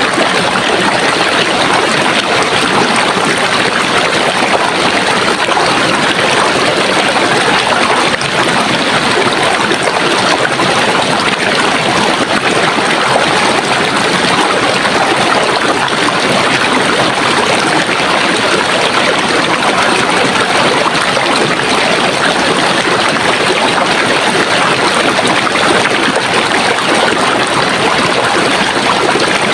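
Running water in a stream, a steady, even rush and babble with no breaks or changes.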